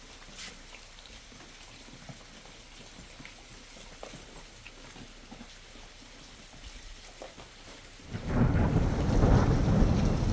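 Light rain with scattered drops, then about eight seconds in a loud rumble of thunder breaks in and keeps rolling.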